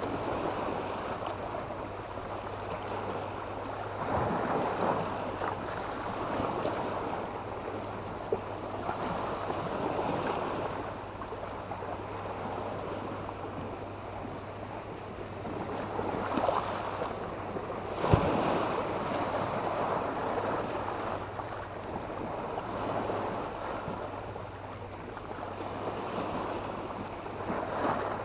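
Sea waves washing onto the beach, the surf swelling and easing every few seconds. A faint low hum runs underneath, and there is a single sharp click about two-thirds of the way through.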